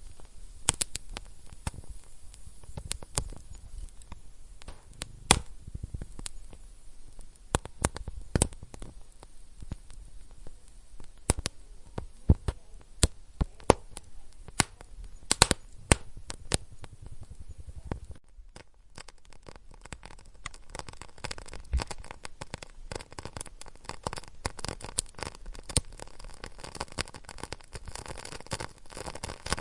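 Wood fire crackling in a fireplace, with scattered sharp pops. About two thirds of the way through it shifts abruptly to a denser, finer crackle.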